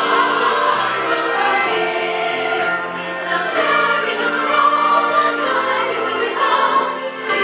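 Choral music: a choir singing long held notes over instruments.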